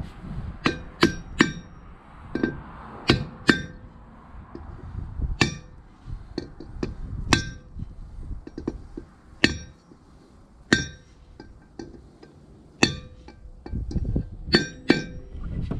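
A hammer striking metal: about fourteen sharp, irregular blows, each with a short metallic ring.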